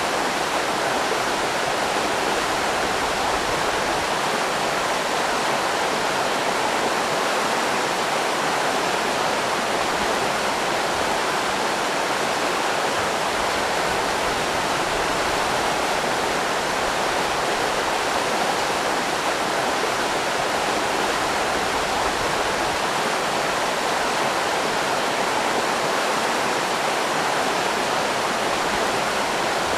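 River rapids rushing, a steady, even roar of white water.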